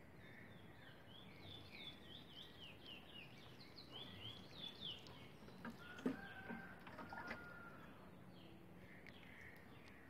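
A small bird chirping in a quick series of short, falling notes for the first few seconds, and again faintly near the end. A few faint clicks and brief squeaky tones come about six to seven seconds in.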